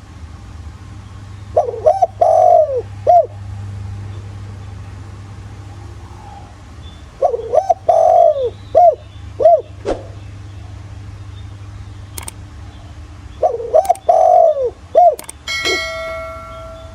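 Spotted dove cooing, the rustic 'thổ' voice used as a lure call: three phrases about six seconds apart, each of four or five coo notes with a longer, falling note in the middle. Near the end a brief steady ringing tone sounds.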